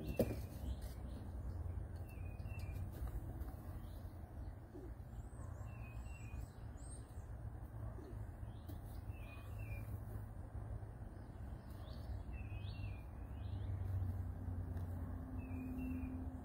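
Songbirds calling, short chirps repeated every second or two with a brief run of thin, high up-slurred notes partway through, over a steady low background rumble.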